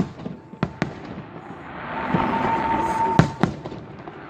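Aerial fireworks bursting at a distance: a sharp bang at the start and two smaller cracks just after. A hissing swell builds up to a second loud bang and another crack a little past three seconds in.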